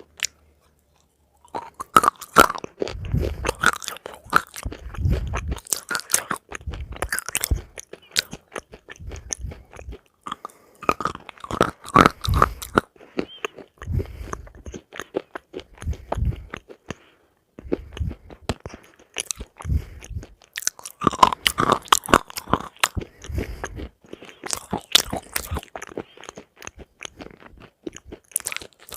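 Close-miked ASMR chewing and biting of crunchy food: a dense, irregular run of sharp crunches and crackles with dull thuds of the jaw underneath, pausing for a second near the start and briefly a few times between mouthfuls.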